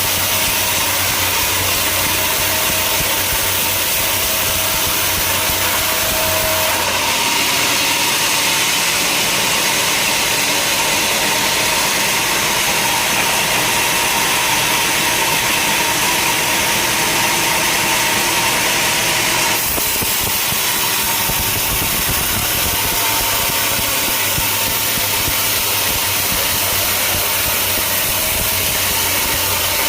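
Sawmill machinery running steadily, with a low engine hum under a dense, hissy noise. From about seven seconds in to about twenty seconds the sound turns harsher and hissier, then drops back to the earlier running sound.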